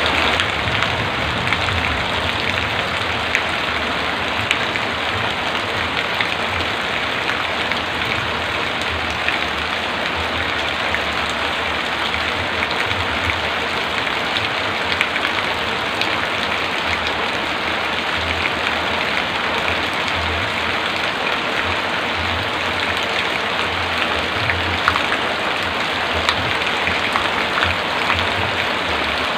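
Heavy rain falling in a steady downpour, with individual drops ticking sharply through the even hiss and a faint low rumble underneath.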